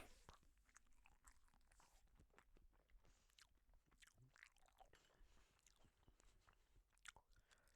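Very faint chewing of noodles: soft wet mouth clicks, with a sharper click at the start and another about seven seconds in.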